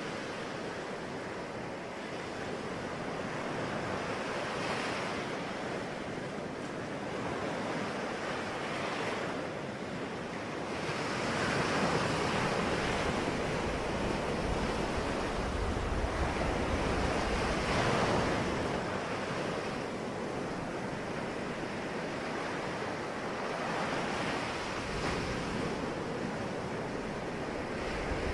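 Sea waves breaking on a shore, a continuous wash of surf that swells and falls back every few seconds, loudest about halfway through.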